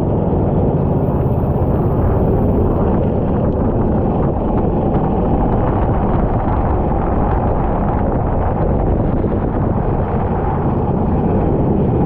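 Go-kart engine running at speed, heard as a loud steady roar heavily buffeted by wind on the onboard microphone.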